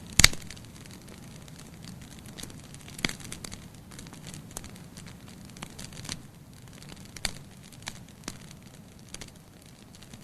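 Wood fire crackling in a fireplace, with a loud sharp pop just after the start and scattered smaller snaps over a low steady rush of flame.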